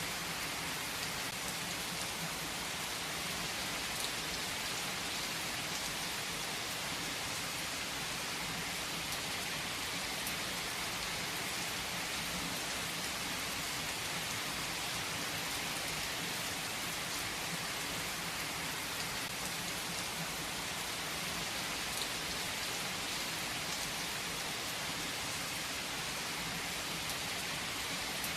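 Steady rain falling, a constant hiss of downpour with a scattering of individual drop hits.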